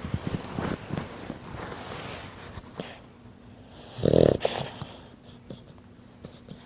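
A sleeping Frenchton puppy (French bulldog and Boston terrier cross) snoring, with irregular rattling breaths. One louder, short buzzy breath comes about four seconds in, and the breathing is quieter after it.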